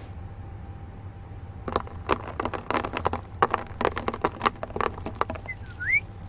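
A small bird moving in a wooden nest box: quick, irregular light taps and scratches for a few seconds, then one short rising chirp near the end, over a low steady hum.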